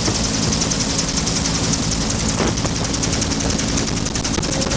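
Bell UH-1 Huey helicopter in flight: the two-bladed main rotor beats in a fast, even rhythm over the steady drone of the turbine.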